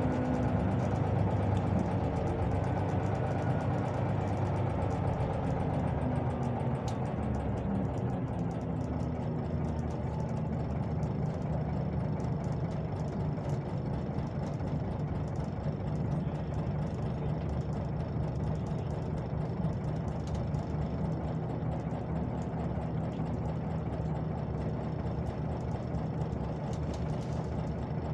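Scania OmniLink CL94UB city bus: its engine and drivetrain note falls in pitch over the first several seconds as the bus slows, then settles into a steady idle.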